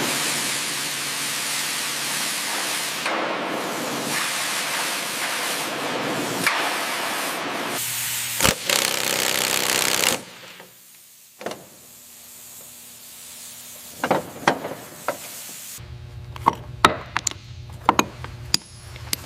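Workshop tool noise: a steady rasping, like sanding or spraying, for about ten seconds that stops abruptly. After a quieter stretch, a low hum starts and a series of sharp metallic clinks and knocks follows near the end.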